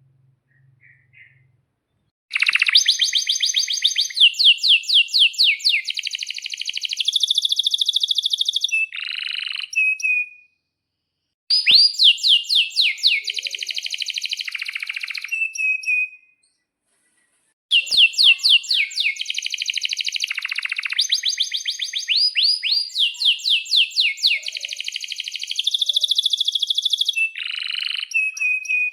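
Domestic canary in full song: long phrases of fast rolling trills and rapid repeated chirps. The song starts about two seconds in and runs in three long bouts with two brief pauses.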